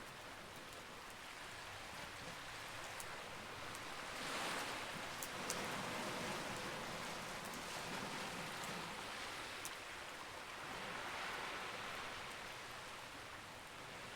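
Campfire burning: a steady rushing hiss that swells twice, with a few sharp crackling pops.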